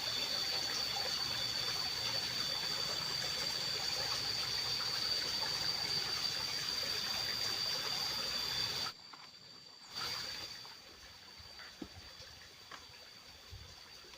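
Steady trickling water with a thin, steady high tone over it. About nine seconds in it cuts off abruptly, leaving a much quieter background.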